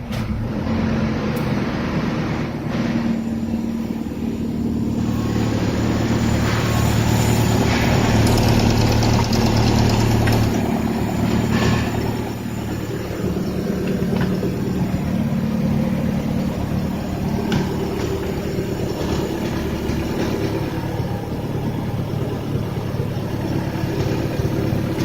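Opel Z16SE 1.6-litre four-cylinder petrol engine running steadily at about idle. It is a little louder for a few seconds in the middle.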